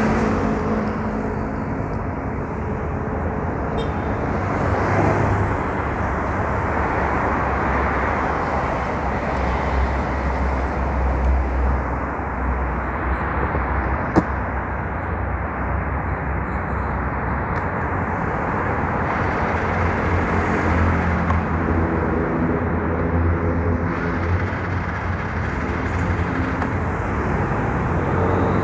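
Yamaha Mio Soul scooter's engine running on the move, under steady road and wind noise, with a single sharp click about halfway through.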